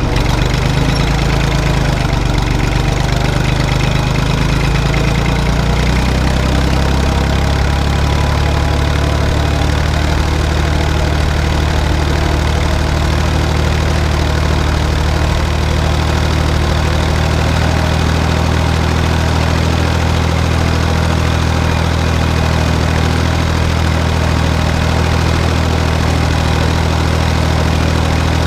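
Tractor diesel engine running steadily at constant speed, as when pulling a cultivator through a field.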